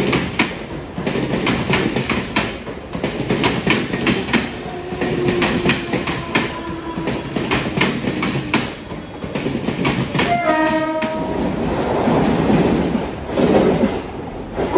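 Electric multiple-unit suburban local train passing close by, its wheels clattering in a quick rhythm over the rail joints. About ten seconds in, a train horn sounds briefly with a falling pitch, followed by the rushing noise of the passing train.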